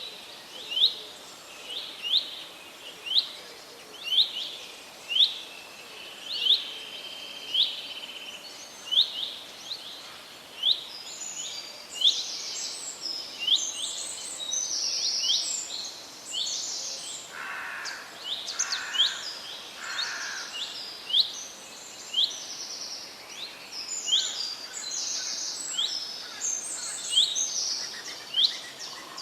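Songbirds chirping over a steady hiss of forest ambience: one bird repeats a short, high, downward-sweeping chirp about twice a second. About eleven seconds in, a second, higher-pitched bird joins with a busier run of chirps, and three lower calls come a little past halfway.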